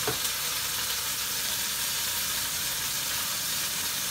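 Pork roast and sliced onion sizzling in ghee in an Instant Pot: a steady frying hiss.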